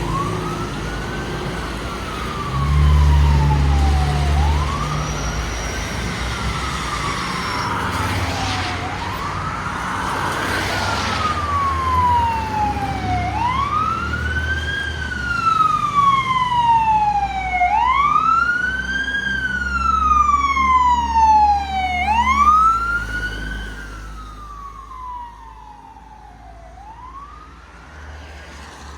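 Fire engine responding with its siren wailing, each cycle rising quickly and falling slowly about every four and a half seconds, over the rumble of the truck's engine. The siren grows louder as the truck comes close, then fades as it moves away near the end.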